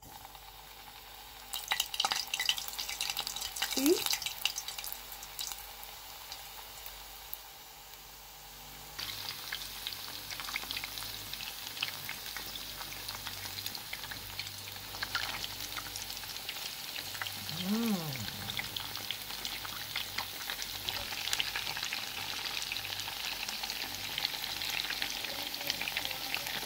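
Whole wheat dumplings deep-frying in hot oil: a steady sizzle full of small crackles, with sharper spattering crackles in the first few seconds. A brief rising-and-falling tone sounds twice, a few seconds in and again about two-thirds of the way through.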